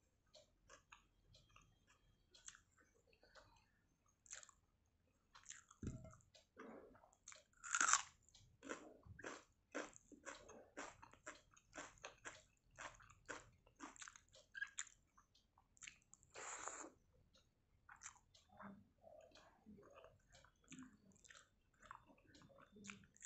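A person chewing and crunching a mouthful of soaked rice with crisp fried pakora and raw onion: a long run of short crisp bites and chews, with the loudest crunch about eight seconds in.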